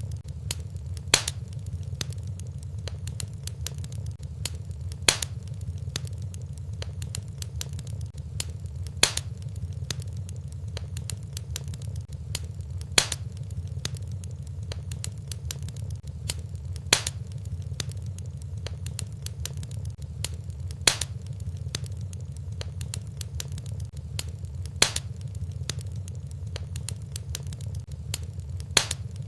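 Wood fire burning in a fireplace: steady crackling over a low rumble, with a louder sharp pop about every four seconds, evenly spaced as in a looped recording.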